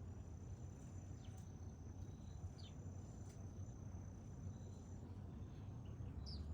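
Faint, steady, high insect trill, typical of a cricket, over a low steady hum, with a few brief high chirps about a second, two and a half seconds and six seconds in. The trill fades about five seconds in.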